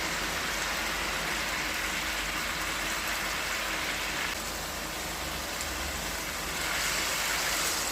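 Curry chicken cooking in a hot pan, a steady sizzle that eases a little about halfway through.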